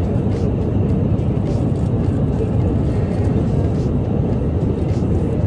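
Steady low drone of a jet airliner's cabin in flight: engine and airflow noise.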